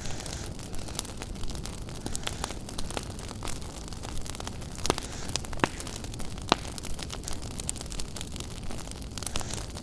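Wood fire in a fireplace crackling, with frequent sharp snaps and a few louder pops over a steady low rush of the flames.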